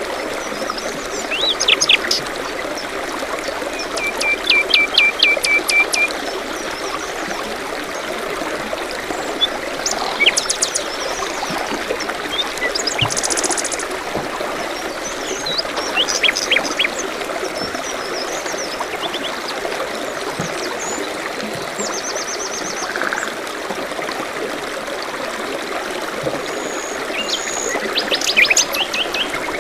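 A forest stream runs steadily under birdsong. Several birds call at intervals in quick runs of high, sweeping chirps, and there is a short trill a few seconds in.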